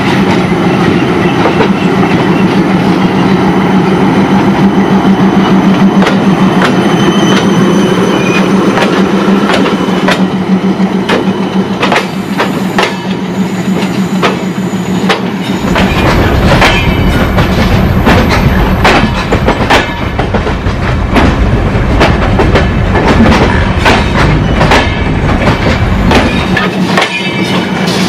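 Passenger train rolling past, its wheels clacking over the rail joints. A steady hum runs through the first half, and a deeper rumble comes in about halfway and stops shortly before the end.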